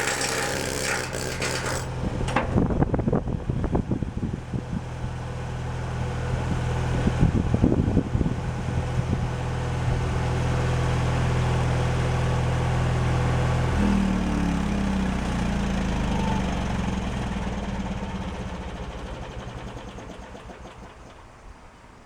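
Engine of a Miller Trailblazer engine-driven portable welder running steadily, its note changing about two-thirds of the way through and then fading away. A hiss in the first couple of seconds and scattered metallic knocks sound over it.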